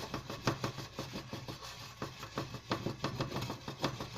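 Chicken nuggets frying in hot oil in a pan, crackling and popping irregularly over a steady low hum.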